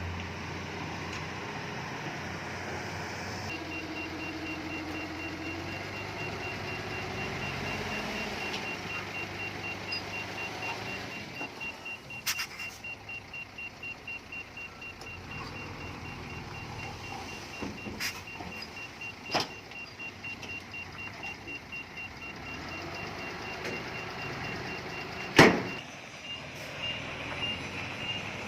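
Diesel engine of heavy earthmoving equipment running under load, with metallic clanks and knocks and one sharp loud bang about 25 seconds in. A faint, rapidly pulsing high tone runs under it from a few seconds in.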